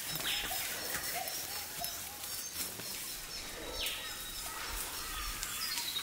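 Outdoor ambience with birds calling. A soft, short chirp repeats about two to three times a second and fades out about two seconds in, over a steady background hiss.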